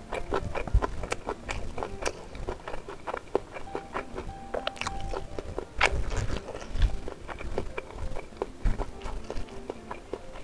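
A person chewing a mouthful of food close to the microphone: irregular mouth clicks and lip smacks, several a second, with a few heavier low thuds.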